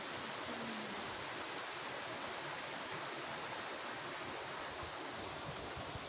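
Steady rushing of flowing water from a stream or river, an even wash of sound with no breaks.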